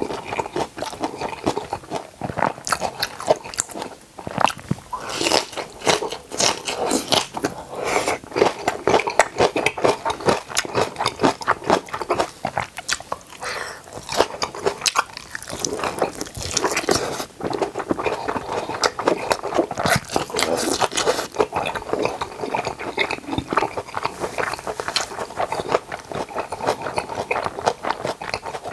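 Close-miked chewing and biting of napa cabbage kimchi and boiled pork (bossam): a dense, crackly run of mouth noises, easing briefly about halfway through.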